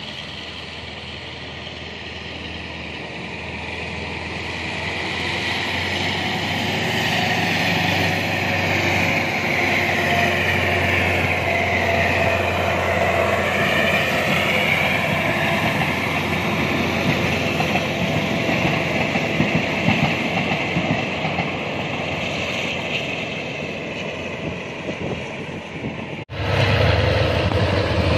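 A diesel locomotive hauling a passenger train runs past, its engine running and the wheels rolling on the rails, growing louder over the first several seconds and then holding steady. Near the end the sound cuts abruptly to the louder rumble of a train of tank wagons rolling by.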